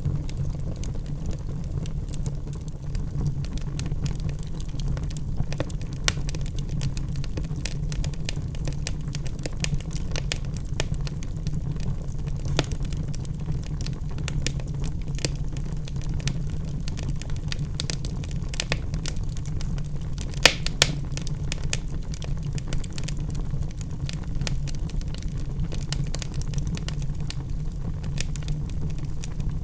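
Logs burning in a fireplace: a steady low rumble of the flames with scattered crackles and pops, including two louder pops about two-thirds of the way through.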